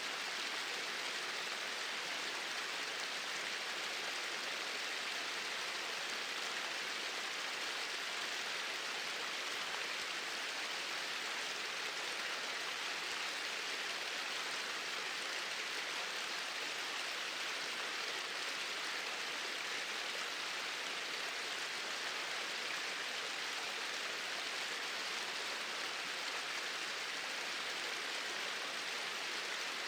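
Small waterfalls pouring steadily into a stream: an even, unbroken rushing hiss of falling water.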